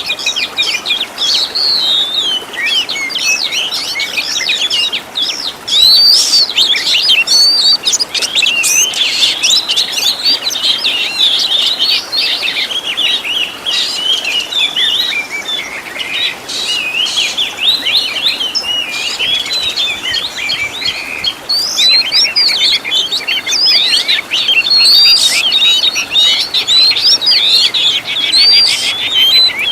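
Songbirds singing densely and without pause: rapid high chirps, whistles and twitters overlapping one another, with fast even trills about 21 seconds in and again near the end. This is fill-in song material used to tutor oriental magpie-robins.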